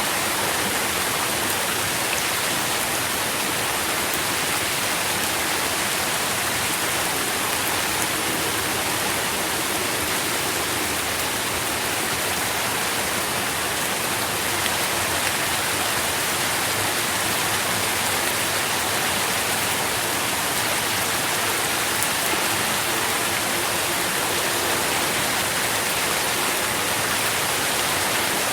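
Steady rain falling, a dense, even hiss of drops with no let-up and no distinct single drips or thunder.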